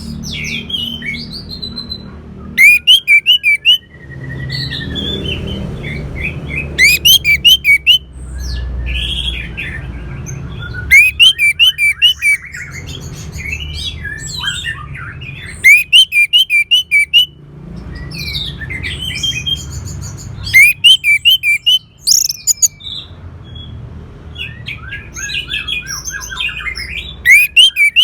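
Orange-headed thrush song: loud bursts of rapid repeated notes about a second long, coming roughly every four to five seconds, with softer varied chirps and whistled glides between them. A steady low background hum runs underneath.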